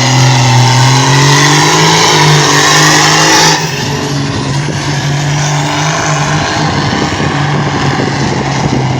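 A competition pulling vehicle's engine running loud and steady at high revs under load as it drags the sled. About three and a half seconds in, its raspy high edge drops away abruptly while the deep engine note carries on.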